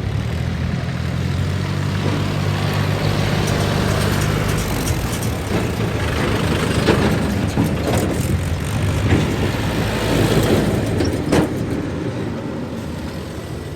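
Heavy diesel engine running, steady at first, then rougher and louder with scattered knocks and clanks, easing off near the end.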